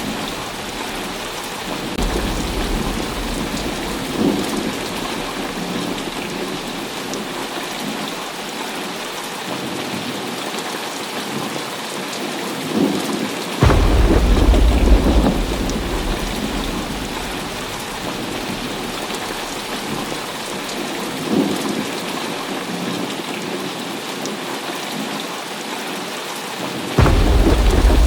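Heavy rain falling steadily, with rolling thunder. A loud, sudden rumble breaks out about halfway through and fades over several seconds, and another rumble starts near the end.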